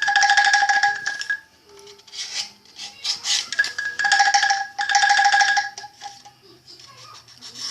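Bamboo angklung shaken to test its pitch during tuning: a fast rattling of tubes sounding one note with its octave, in three main bursts with a shorter, noisier rattle between.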